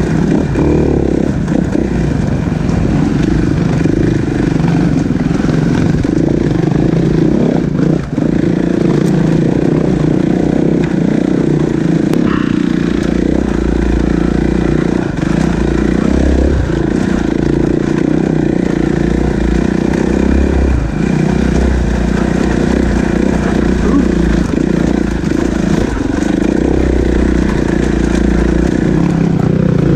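Dirt bike engine running continuously while being ridden, its revs rising and falling as the throttle is worked.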